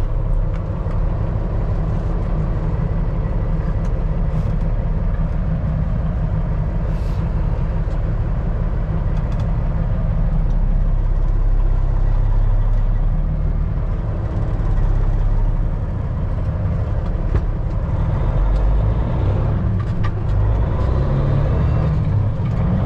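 Semi truck's diesel engine running as the loaded rig pulls away, a steady low rumble that swells and eases a little a couple of times.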